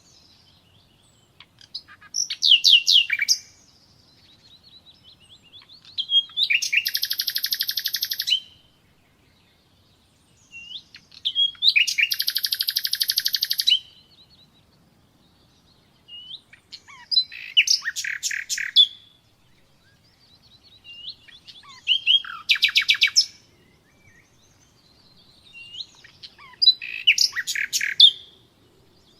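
Nightingale singing in six separate phrases a few seconds apart. Each phrase is a rush of rapid repeated notes and trills.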